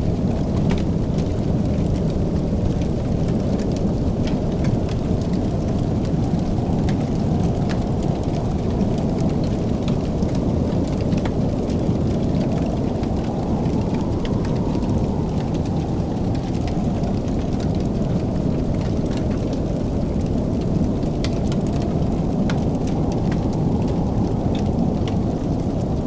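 Fireplace fire crackling, with scattered sharp pops over a steady low rumble.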